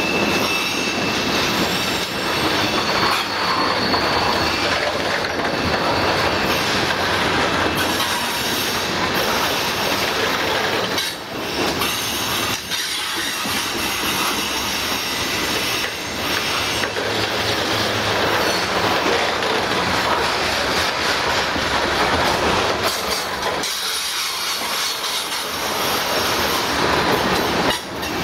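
Freight train cars rolling past close by: a steady rumble and rattle of steel wheels on rail, with a thin high wheel squeal in the first few seconds.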